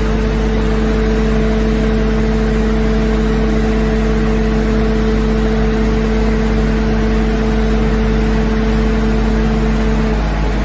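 Skid-steer loader engine running steadily at constant speed, with a deep hum under a steady drone. About ten seconds in, the pitch dips briefly and then comes back up.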